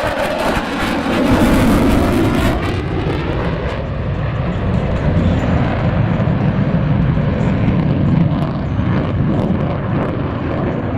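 Jet noise from a Boeing F/A-18 Super Hornet's twin General Electric F414 afterburning turbofan engines during a demonstration flight. It swells to its loudest about one to three seconds in, then goes on as a steady, heavy rumble.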